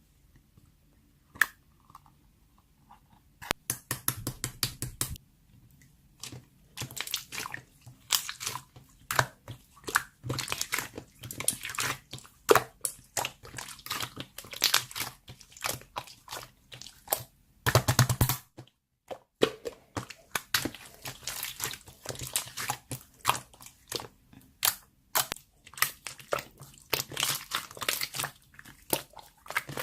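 Slime being squished, poked and stretched by hand, giving rapid crackling clicks and squelches. It starts quietly with a single click, then the clicking runs on thickly, with a short break about two-thirds of the way in.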